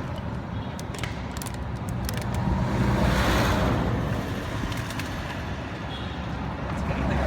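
Road traffic noise: a steady low engine and tyre rumble, with one vehicle passing by, loudest about three seconds in.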